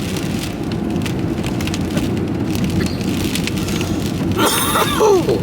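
Rain pattering on a vehicle's roof and windscreen over the steady low rumble of the engine and road noise while driving.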